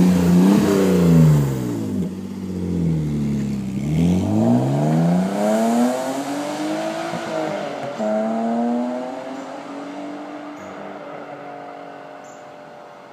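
BMW E36 with a swapped-in S52 3.2-litre inline-six, Borla cat-back exhaust with resonator delete and short ram intake, driving past under power. The engine note first falls, then climbs with the revs, drops at a gear change about seven seconds in, climbs again and fades as the car pulls away. It runs without a misfire, the earlier one having been traced to a dirty MAF sensor.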